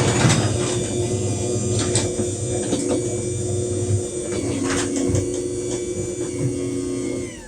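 LiftMaster WLED belt-drive garage door opener running as it moves the door, a steady motor hum with a few light clicks. The hum cuts off just before the end as the opener stops.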